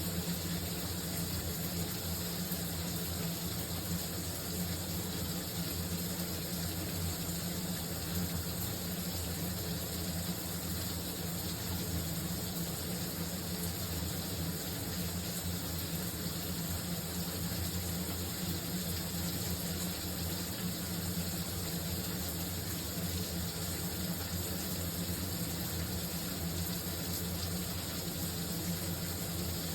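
Shower running: a steady, even spray of water with a constant low hum underneath.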